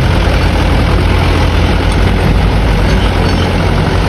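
Truck engine running steadily, a loud, even low rumble.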